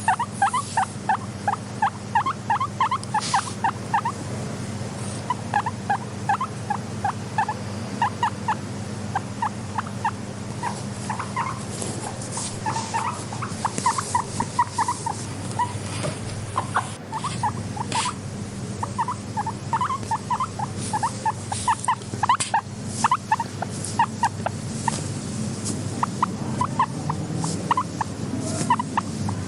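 Guinea pig vocalising in quick runs of short, repeated calls, several a second, over a steady low hum.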